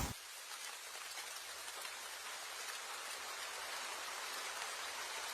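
Steady heavy rain falling, an even hiss with no single sound standing out.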